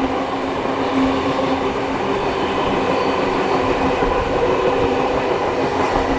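A steam-hauled train running steadily: the continuous rumble of carriage wheels on the track, with a faint steady hum.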